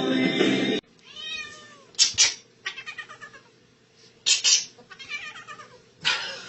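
Music cuts off about a second in, then a cat meows once, its pitch rising and falling, followed by a few short, sharp noisy bursts.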